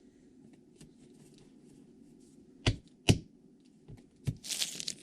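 Trading cards being handled on a table: two sharp clicks close together about midway, a couple of fainter taps after them, then a short rustle near the end.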